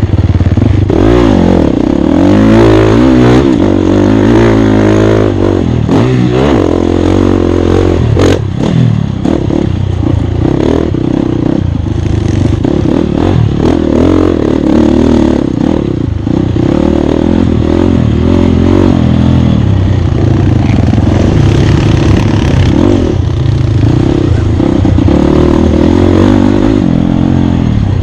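Off-road dirt bike engine being ridden hard, revving up and down with repeated rises and drops in pitch as the rider works the throttle and gears, over clattering and scraping from the rough ground. A sharp knock about eight seconds in.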